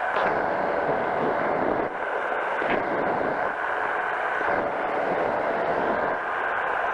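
A powered parachute's engine and pusher propeller running steadily in cruise flight, a constant, dense drone.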